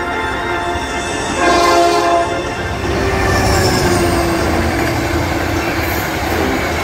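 A train passing close with its air horn sounding, over a steady low rumble of locomotive and wheels on the rails. The horn comes in about a second and a half in, and its pitch drops a little as the train goes by.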